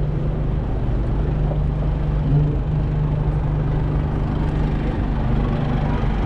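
Steady rumble of a vehicle in motion, with a low droning hum that holds one pitch throughout.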